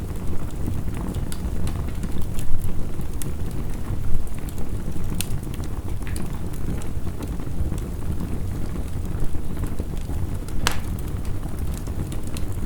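Wood fire crackling, with scattered sharp pops, the loudest about five seconds in and shortly before the end, over a steady low rumble of heavy rain.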